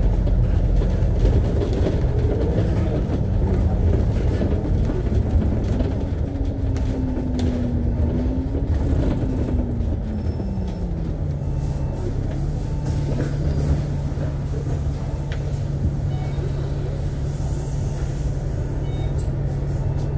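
Alexander Dennis Enviro500 double-decker bus running on the road, its engine note climbing for a few seconds about midway, then falling back and holding a steady note to the end.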